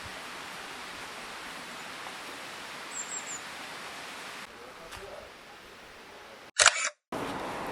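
Steady outdoor ambience with a brief high bird chirp about three seconds in. Near the end the background changes abruptly, with a loud half-second burst and a moment of dead silence before a different ambience starts.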